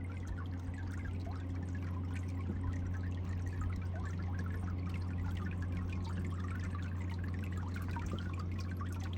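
Meltwater dripping and trickling off glacier ice into the lake: many small drops falling at random over a steady low hum.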